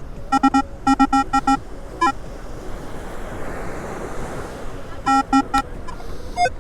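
Metal detector sounding a target with bursts of short, quick beeps of one steady tone, a cluster near the start and another about five seconds in, on a target the detectorist expects to be aluminum. Surf washes in between the two clusters.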